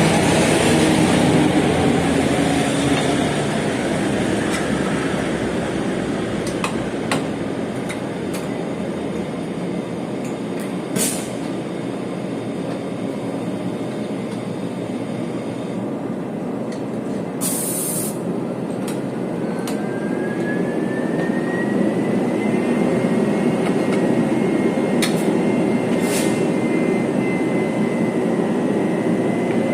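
Chu-Kuang Express passenger train running on the rails, a steady rumble with a few sharp clicks. About two-thirds of the way in, a whine rises and then holds steady at a high pitch.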